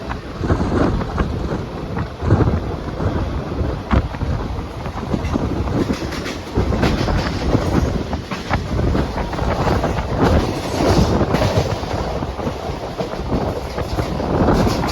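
Mumbai suburban local train running on the rails: a steady rumble with irregular clanks and clatter from the wheels and carriages.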